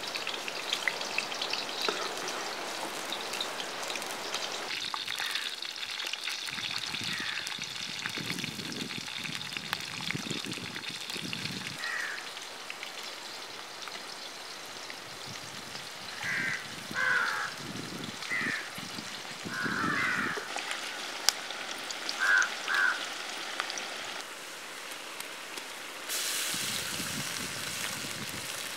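Sliced onions and green chillies sizzling in hot oil in a large kadai, a steady frying hiss, with a few short chirps over it through the middle.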